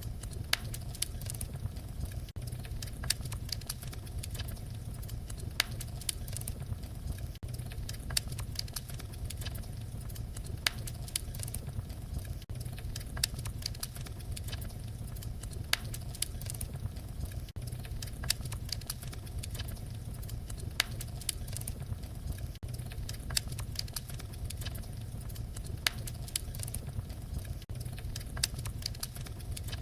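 Wood fire crackling: a steady low rumble of flames with frequent, irregular sharp pops and snaps.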